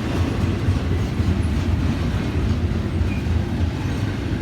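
Florida East Coast Railway freight train rolling past at close range, a steady low rumble of steel wheels on rail.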